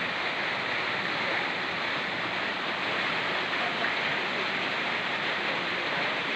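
A fast-flowing mountain stream rushing steadily over rocks, mixed with the patter of falling rain, as one even wash of water noise.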